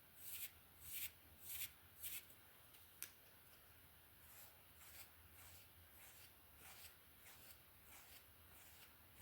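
Close-miked hairbrush strokes through hair, a soft rhythmic swish repeating about every 0.6 s. The strokes are louder for the first two seconds, with a single click about 3 s in, then carry on more softly.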